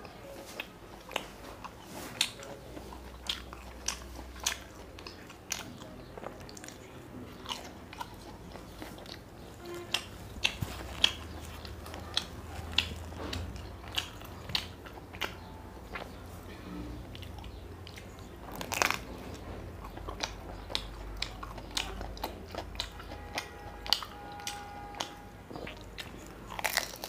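Close-miked mouth sounds of a man chewing puri (luchi) dipped in mutton curry gravy: irregular sharp wet clicks and smacks, several in a second at times.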